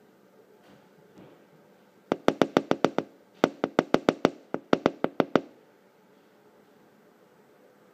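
A small bird pecking at window glass: three quick runs of sharp taps, about eight a second, starting about two seconds in.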